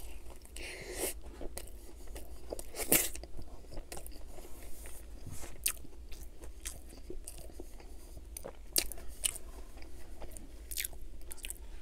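Close-miked biting and chewing of a breaded fried chicken patty sandwiched between pancakes: a bite at the start, then irregular sharp crunches of the breading as it is chewed.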